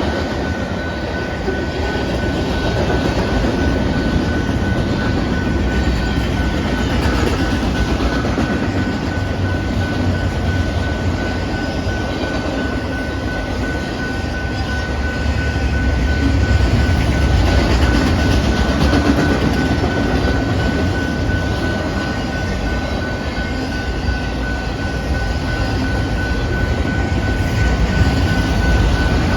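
Canadian Pacific manifest freight train's cars rolling past, a steady loud rumble and clatter of wheels on rail, with a thin steady high tone throughout.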